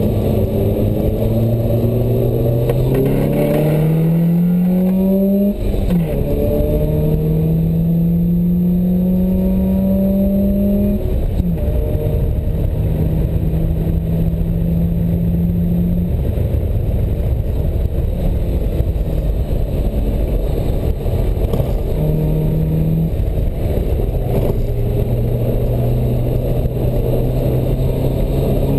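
Open-top sports car's engine heard from the cockpit under hard driving, over heavy wind rush: it climbs in pitch through the gears with upshifts about six and eleven seconds in, holds a steady note, fades into the wind for a few seconds in the middle, then pulls steadily again near the end.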